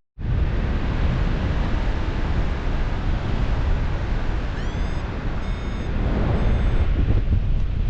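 Wind rushing over the microphone in flight, steady and heavy in the lows. Three short electronic beeps, typical of a paraglider variometer, come about five seconds in; the first slides up in pitch and the next two hold steady.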